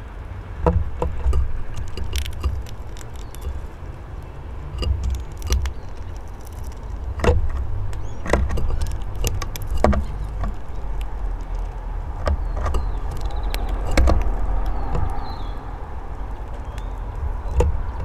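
Bullfinches pecking and hopping on a wooden bird table: scattered sharp taps and clicks over a low, uneven rumble, with a few faint high chirps late on.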